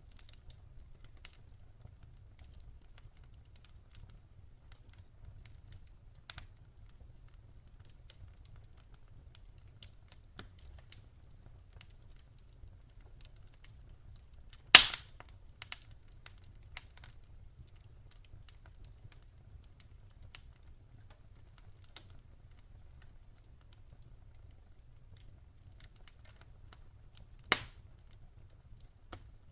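Campfire crackling: scattered small crackles, with two sharp, louder pops of burning wood, one about halfway through and one near the end, over a faint low rumble.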